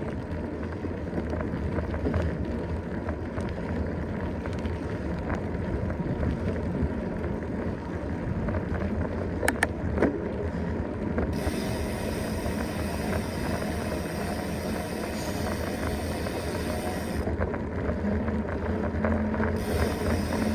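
Mountain bike being ridden over a trail: steady rumble of tyres and bike noise with wind on the microphone, two sharp knocks about nine and ten seconds in, and a higher hiss that comes in from about eleven to seventeen seconds and again near the end.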